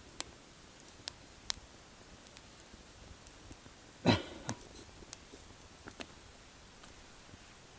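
A few scattered sharp clicks, then one louder short knock a little over four seconds in, followed by a smaller one.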